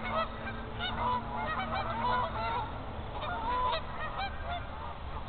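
A flock of geese honking, many calls overlapping, as the birds get wound up before taking off from the pond.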